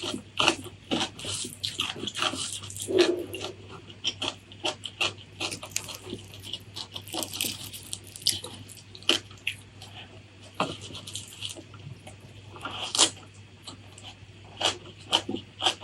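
Close-miked chewing: a dense, irregular run of sharp crunchy clicks and wet mouth smacks as food is eaten.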